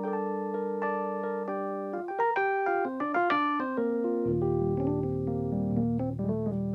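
Piano music without singing: held chords, then a quick run of notes about two seconds in, after which deep bass notes come in under the chords.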